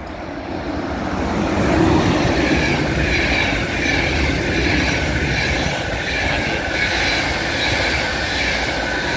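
ÖBB Taurus-hauled passenger train running through a station at speed. It swells as the locomotive comes past about two seconds in, then holds as a steady rush of coaches and wheels on the rails, with a high wavering squeal above it.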